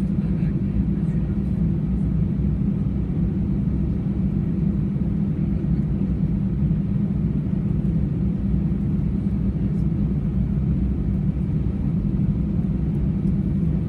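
Steady low rumble of an Airbus A320's engines and airflow, heard from inside the passenger cabin.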